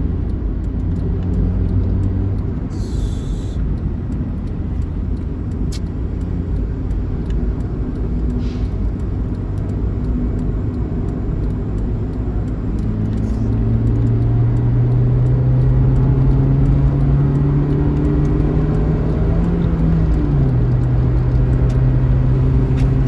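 Bus diesel engine pulling hard at highway speed over steady road rumble. A short air hiss comes about three seconds in. In the second half the engine note climbs steadily for several seconds, then drops suddenly as it shifts up a gear.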